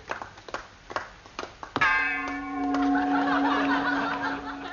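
Scattered clapping, then a single sharp bell-like metallic clang about two seconds in that rings on and fades over about three seconds.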